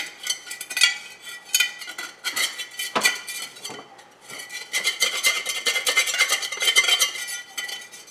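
Scraping and scratching of a hard object rubbed against a hard surface: a few separate strokes, then steady rapid scraping from about four and a half seconds in.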